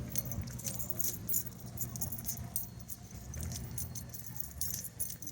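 Continuous light metallic jingling, like keys shaking on a ring, over a steady low rumble.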